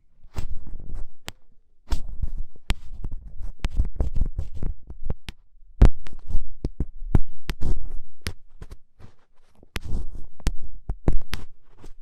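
Ear pick scratching and scraping, in the strong, crackly "kari-kari" style of ear-cleaning ASMR: dense rough scraping with many sharp clicks and low rumbling thumps, easing off briefly a little after halfway.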